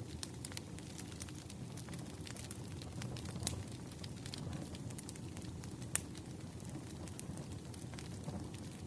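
Firewood burning: a steady low rumble of flames with frequent sharp crackles and pops, the loudest pop about six seconds in.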